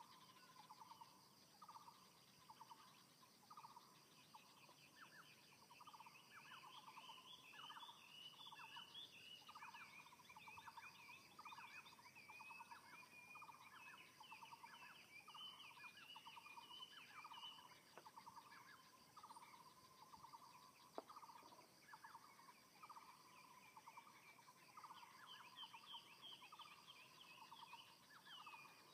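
Faint morning birdsong: one bird repeats a short, trilled call about once a second, while other birds twitter in higher chirps over it for much of the time.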